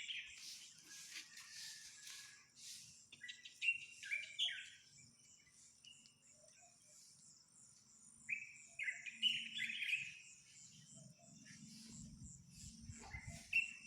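Wild birds singing: short bursts of quick chirping notes, in two bouts a few seconds apart. A thin, steady high trill runs underneath.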